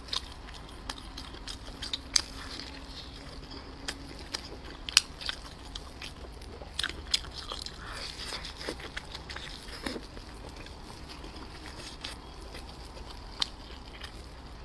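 Close-miked biting and chewing of a soft cheese-filled dumpling, with irregular sharp wet mouth clicks and smacks.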